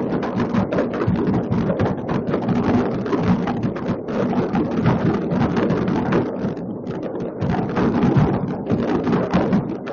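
Many fireworks going off at once, their bangs and crackles merging into a continuous rumble with no breaks.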